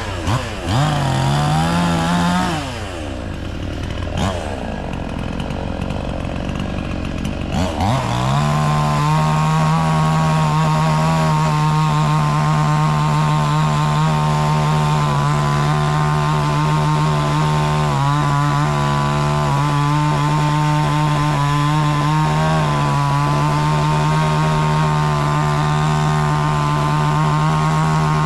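Gas chainsaw revving up and down several times, then held at a steady high speed from about eight seconds in, as in a long cut through wood.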